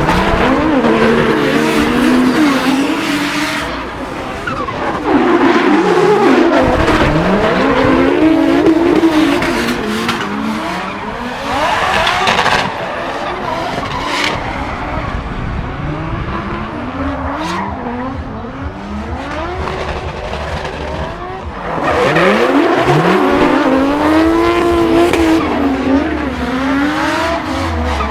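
Nissan R33 Skyline drift car driven hard: the engine revs rise and fall over and over with throttle and gear changes, over screeching, skidding tyres.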